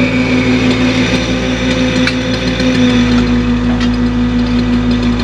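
Excavator's diesel engine running steadily while the machine works its hydraulics to set a block, with a few light clicks and the low hum growing heavier about three seconds in.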